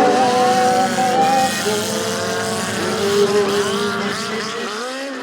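Engines of several trash race cars running and revving on a dirt track, their pitches rising and falling, fading out near the end.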